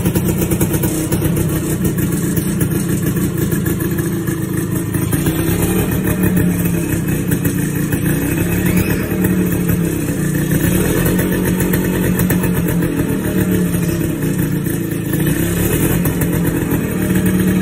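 Suzuki Satria's single-cylinder two-stroke engine running steadily, its pitch wavering up and down a few times. It has just been started.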